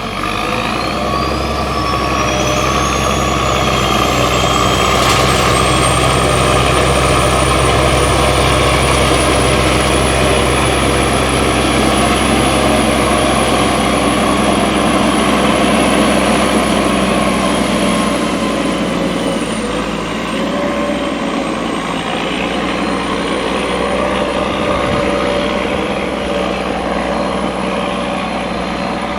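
Prinoth Leitwolf W snow groomer's MAN diesel engine working hard under load, with a turbocharger whistle that rises steeply over the first few seconds, then holds high and steady, sagging briefly past the middle.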